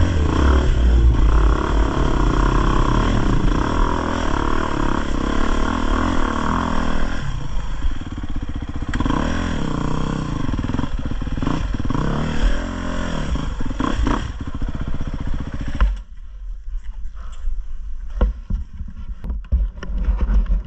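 Dirt bike engine revving up and down under load on an off-road trail, its pitch rising and falling with the throttle. About three-quarters of the way in, the engine sound drops away, leaving a low rumble and scattered knocks and clatter.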